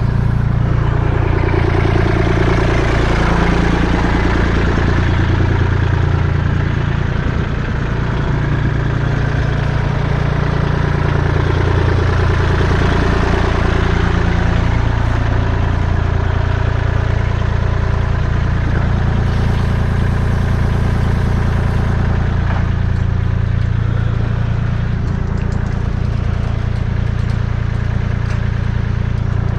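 A motor vehicle engine running near idle, its pitch shifting up and down a little in the first half, then holding steady.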